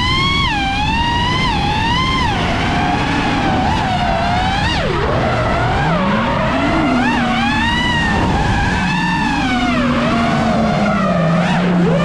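Drift car sliding, its tyres squealing in one long wavering tone that dips sharply twice, over the engine note rising and falling with the throttle.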